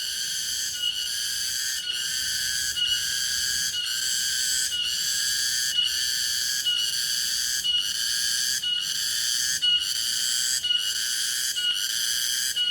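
Cicadas singing: a steady, shrill buzz pulsing in phrases about once a second, each phrase opening with a brief higher note.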